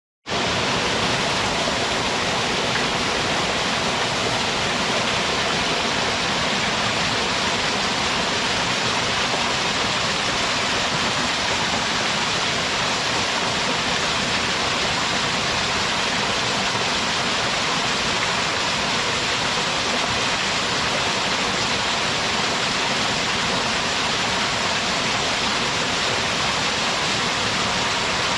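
A small mountain-stream waterfall with hardly any drop, pouring strongly: a steady, even rush of falling water.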